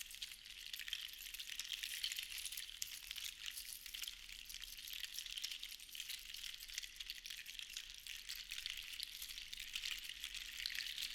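Seashells rattling together as they are shaken, a dense continuous patter of tiny clicks that swells and eases in slow waves.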